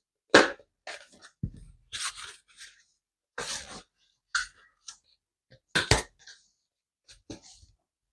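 Kitchen handling noises: a string of short, irregular clatters, rustles and knocks as items are moved about, the loudest right at the start.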